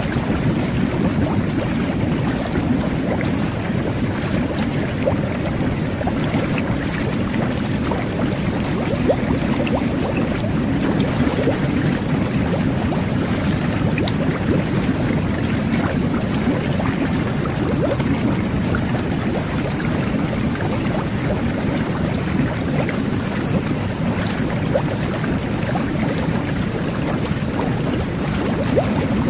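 Jet bath (whirlpool tub) running: water jets and air bubbles churning the bathwater in a steady, even bubbling with small pops scattered through it.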